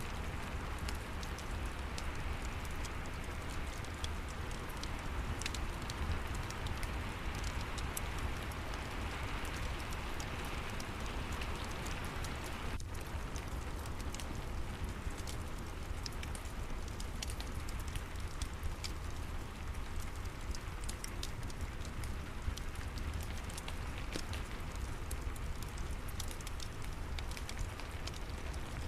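Steady rain with the scattered pops and crackles of a wood fire in a fireplace, over a constant low rumble.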